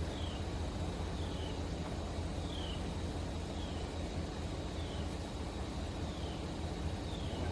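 A vehicle engine idling with a steady low hum, while a short, high, falling chirp repeats about once a second.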